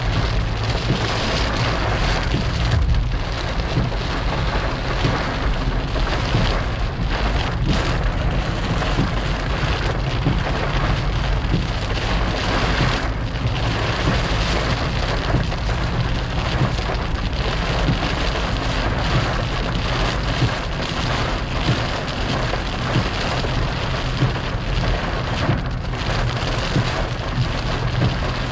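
Rain pouring down steadily during a thunderstorm, with a steady low rumble underneath.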